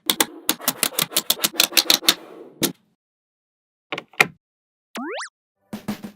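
Small magnetic balls clicking and snapping together in quick runs of sharp clicks, which stop for about a second just after the middle. A short rising tone sounds about five seconds in, followed by a few more clicks near the end.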